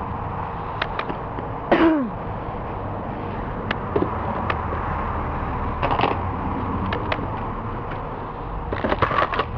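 Handling of plastic airsoft rifle accessories: scattered light clicks and clacks, a short scraping sound falling in pitch about two seconds in, and a cluster of clicks near the end, over a steady low background hum.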